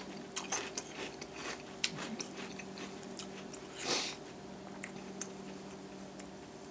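Close-up chewing of a mouthful of milk-soaked breakfast cereal: irregular crunches and wet mouth clicks, with one louder breathy sound about four seconds in.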